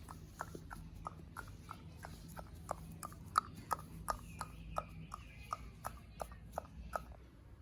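Clip-clop of a trotting horse's hooves, as sharp clicks about three a second that stop shortly before the end, over a faint steady hum.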